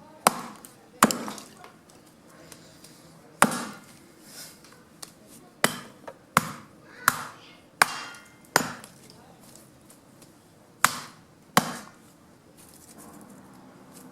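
Fallen branches being chopped into wood chips by hand: about ten sharp wooden chopping strikes at an uneven pace, some in quick pairs, with gaps of up to two seconds.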